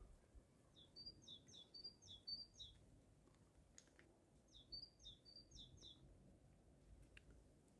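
A small bird singing faintly: two short phrases of quick, high paired chirps, the second phrase coming a couple of seconds after the first ends.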